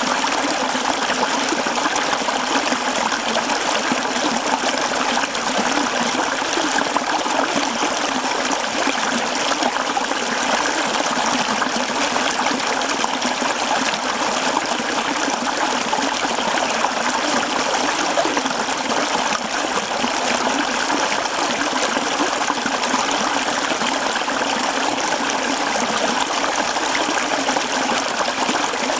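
Mountain stream flowing over rocks: a steady, unbroken rush and babble of water.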